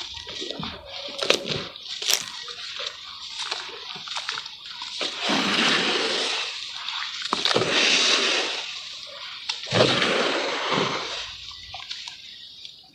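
Charcoal crumbling in water: sharp crackling clicks at first, then three longer sloshing, splashing swells of water and wet crumbs, fading out near the end.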